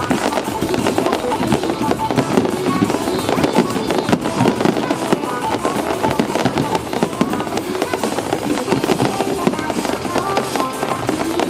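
Fireworks bursting and crackling in rapid succession over music, continuous throughout.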